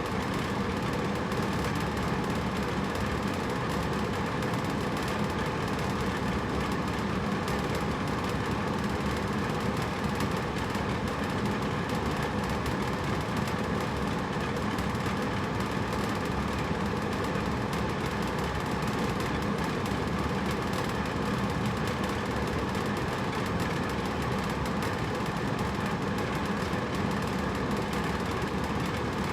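Hotel room air conditioner running steadily: an unbroken, even rush of fan and airflow with a low hum under it.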